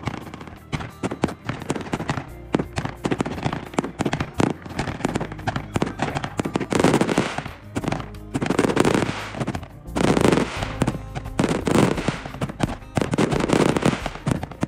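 Fireworks going off in rapid crackling bangs, with heavier clusters of bursts every second or two, over background music.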